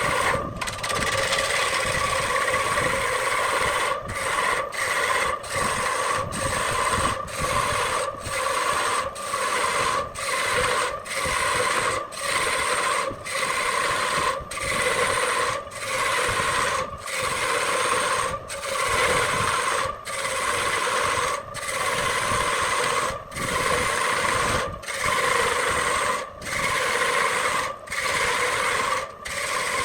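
Wood lathe running with a tool scraping the spinning wood: a steady rasping whir with a constant hum, broken by brief gaps about once a second.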